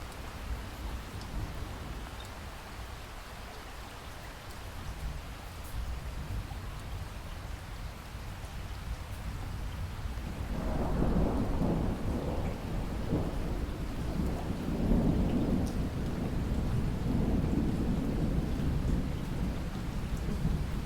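Thunderstorm: steady rain, then about halfway through a long roll of thunder swells up and keeps rumbling, surging a few times, to the end.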